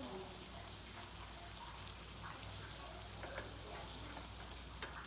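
Oil sizzling in a frying pan with scattered sharp crackles and pops as cakes fry.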